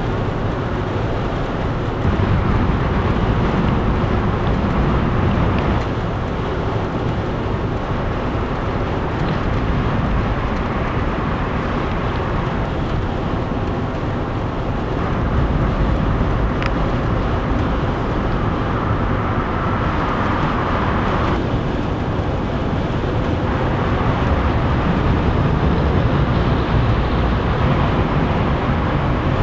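Steady motor-vehicle road noise: a continuous low rumble with a brighter hum in the middle that stops abruptly about two-thirds of the way through.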